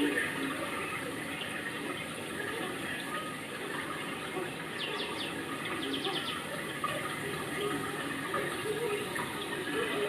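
Steady rushing noise like running water, with faint scattered voices, and two quick runs of high chirps a little after the midpoint.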